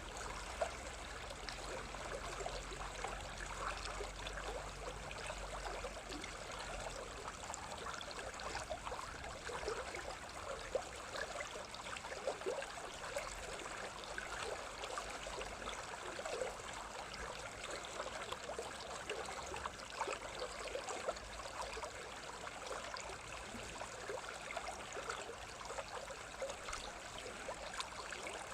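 A small stream running steadily, a continuous babbling rush full of small splashes and trickles.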